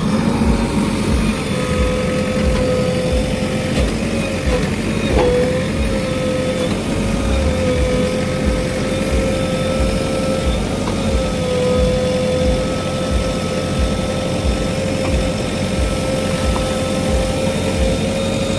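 JCB backhoe loader's diesel engine running steadily, with a steady whine held over it.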